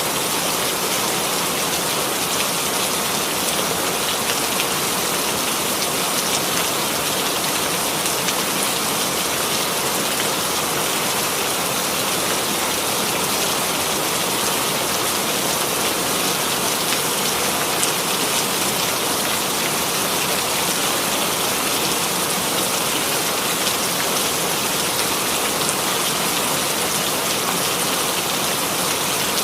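Steady rainfall, an even hiss of drops with faint scattered pattering on a surface.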